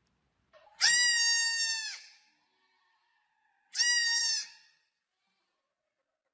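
A goat bleating twice, each a high, steady call about a second long, about three seconds apart.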